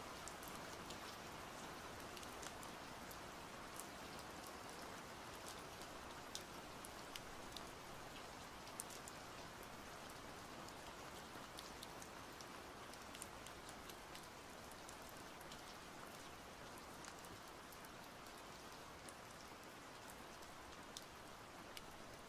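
Faint, steady rain, with scattered single drops ticking sharply on a hard surface; it eases a little toward the end.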